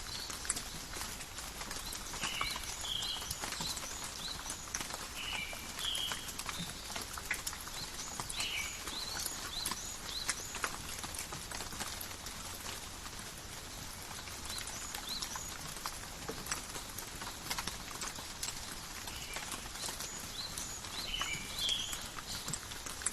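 Steady rain falling in a forest, with many sharp drips and patters on leaves. Short, high animal calls come in repeated pairs, clustered near the start and again near the end, with fainter rising chirps among them.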